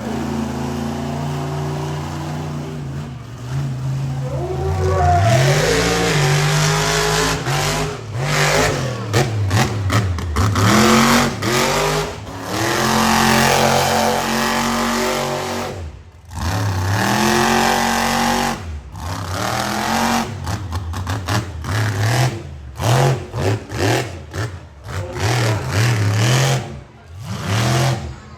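Monster truck engine revving hard over and over, its pitch climbing and falling as the throttle is opened and lifted. It drops out sharply for a moment about 16 seconds in and again near 19 seconds, then goes into short, choppy throttle blips toward the end.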